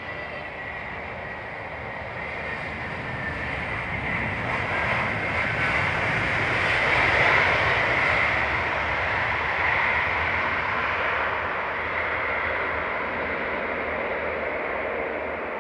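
Airplane engines passing close by, the noise swelling to a peak about seven seconds in and then slowly fading.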